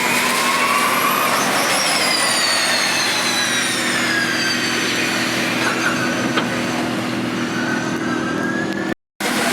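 Formula E race cars passing, their electric drivetrains giving a high whine over tyre and track noise: the whine rises in pitch up to about a second in, then falls away over the next few seconds, and another rising whine starts near the end. The sound drops out for a moment shortly before the end.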